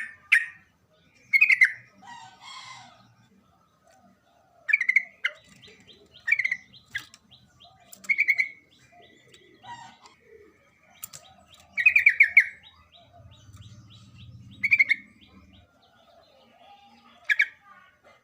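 Yellow-vented bulbul (trucukan) singing: short loud chirping phrases repeated every second or two, with a faint steady high tone behind them from about five to thirteen seconds in.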